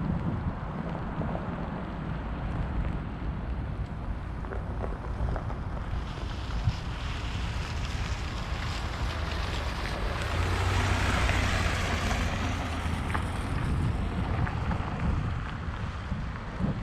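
A vehicle passing on a wet road: the tyre hiss swells up, peaks and fades away. Wind buffets the microphone with a low rumble throughout.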